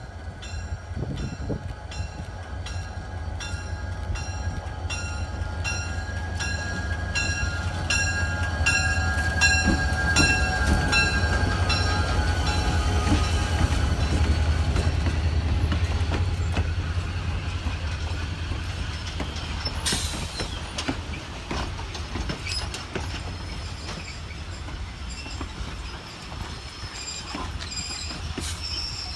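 Santa Fe diesel locomotive passing close, its bell ringing steadily and its horn sounding for several seconds, the engine rumble loudest as it goes by. Then the passenger cars roll past with a sharp clank about two-thirds of the way through, wheels clicking over rail joints, and a brief wheel squeal near the end.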